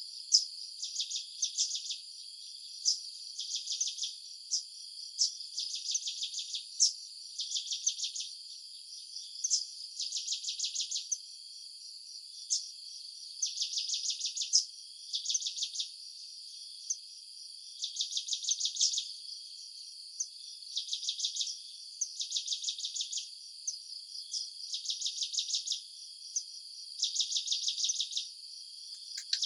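Insects chirping in rapid pulsed trills about a second long, repeating every second or two over a steady high-pitched insect drone.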